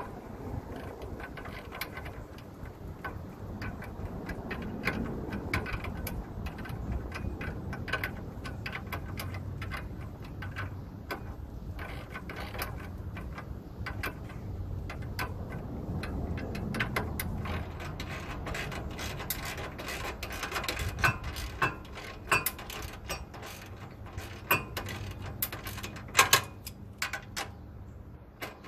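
Hand ratchet wrench clicking in runs as nuts are tightened onto bolts, the clicks growing denser in the last third, with a few louder knocks of metal.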